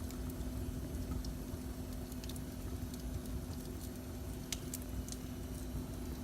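Wood fire in a fireplace burning with a few sparse crackles and pops, the sharpest a little past halfway, over a steady low rumble and a constant hum.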